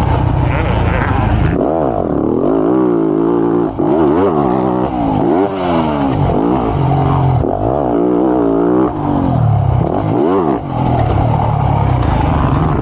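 Motocross bike engine revving hard, its pitch climbing and dropping about once a second as the throttle is opened and shut and the gears change.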